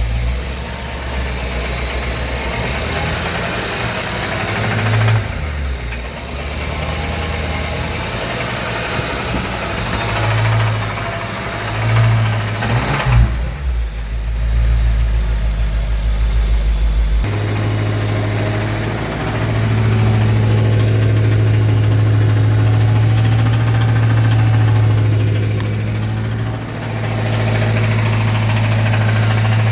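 2014 BMW M5's S63TU twin-turbo V8 running at idle as a steady low hum, with a few brief swells in level about a third of the way in. A little past halfway the hum steps up to a higher steady pitch.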